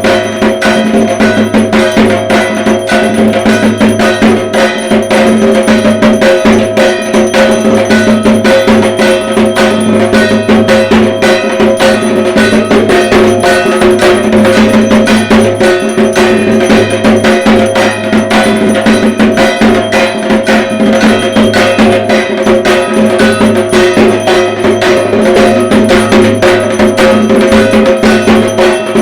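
Dhak, the large Bengali barrel drum beaten with two sticks, played in a fast, steady Durga Puja rhythm, over a continuous metallic ringing.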